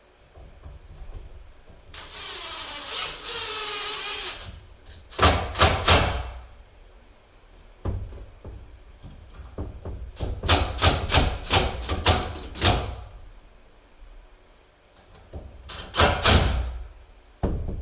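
Power drill driving 3-inch coated screws into a 2x4 in several short runs. About two seconds in the motor whines with its pitch sliding, and later there are three separate bursts of driving.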